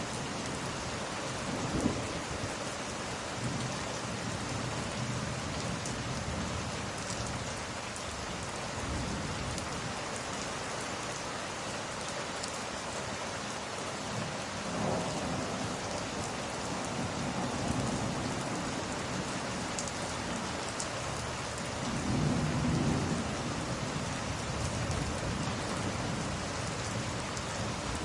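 Steady heavy rain with low rolls of thunder swelling a few times, the loudest about two-thirds of the way in. A few faint crackles from a log fire are also heard.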